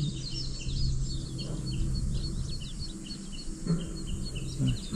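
Birds singing in open grassland: a steady run of short, high chirps, several a second, over a low rumble.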